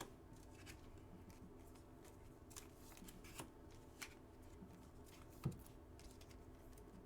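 Near silence with faint handling of trading cards: scattered soft clicks and taps, the clearest about five and a half seconds in.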